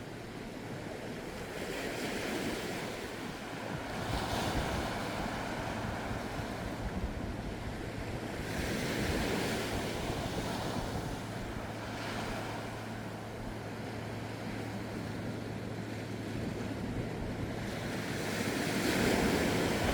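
Gentle sea waves washing onto the shore, the surf swelling and subsiding every few seconds, with the biggest surge near the end.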